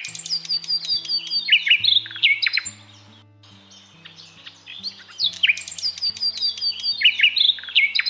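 Birds chirping with quick falling whistled notes in two bursts of about three seconds, separated by a short pause, over soft background music with held low notes.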